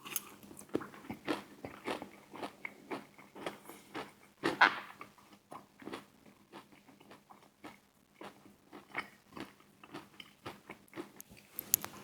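A person chewing and biting crunchy fried food close to the microphone: a steady run of short crunches, with a louder crunch about four and a half seconds in and another near the end.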